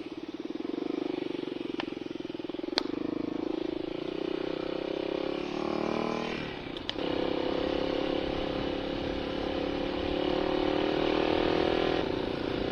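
Dirt bike engine running under way, its pitch rising for about a second before a brief drop a little over six seconds in, then holding steady. A single sharp crack stands out about three seconds in, with a fainter click a second before it.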